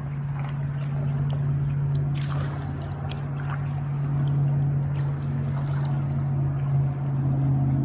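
A steady, low engine drone, with light splashes and drips from paddling.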